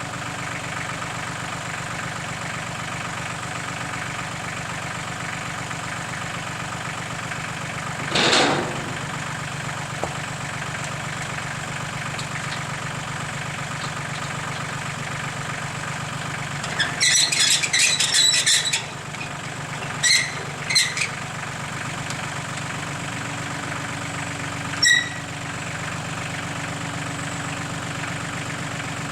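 Tractor engine running steadily at idle while it works the loader with the bucket-mounted trailer hitch. Over it come a short loud rush about eight seconds in, bursts of sharp high metallic squealing a little past halfway, and a single ringing metal clink near the end.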